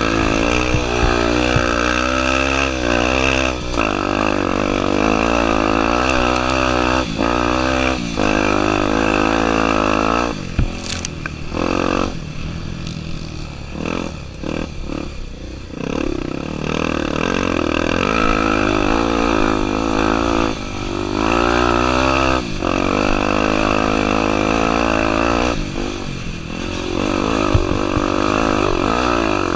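Honda Tornado 250 dirt bike's single-cylinder four-stroke engine being ridden hard, revving up and down with the throttle through repeated rises and drops in pitch. The revs ease off for several seconds in the middle, with a sharp knock about eleven seconds in.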